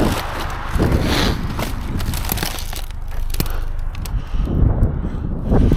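Debris being shifted and rummaged through in a dumpster: scattered knocks, clatters and crackling over a low rumble.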